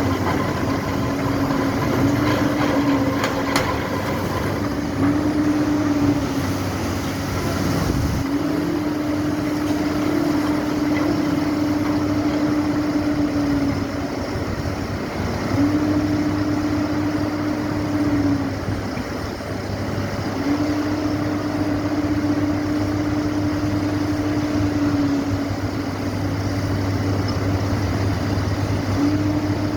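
Engine-driven machinery running steadily, with a motor hum that starts and stops about six times, each run lasting from about one to five seconds.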